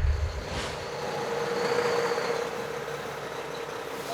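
A vehicle engine running with a steady hum, growing louder about two seconds in and then easing off.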